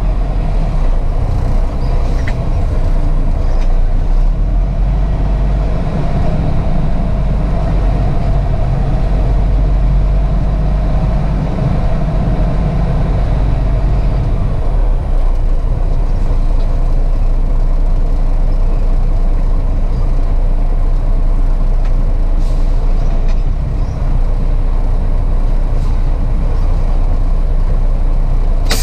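Semi-truck's diesel engine running with a steady low rumble, heard from inside the cab.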